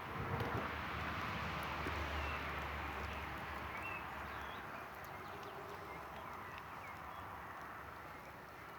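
Campfire burning, with scattered sharp crackles and pops from the wood. A rushing swell of noise with a low rumble rises about a second in and slowly fades over the next few seconds.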